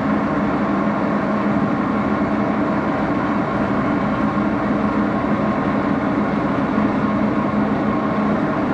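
Axelson engine lathe running at full spindle speed: a steady mechanical hum with a constant low tone, unchanging throughout.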